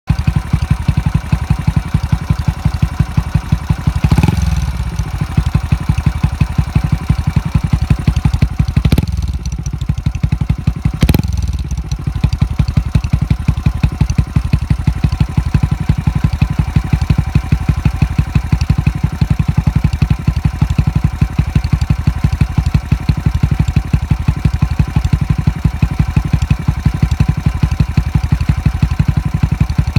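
Honda Little Cub's 49 cc single-cylinder four-stroke engine idling through a Takegawa Cabton-style muffler, with an even, steady exhaust beat. The throttle is blipped three times, about four, nine and eleven seconds in, and each time the revs fall back to idle.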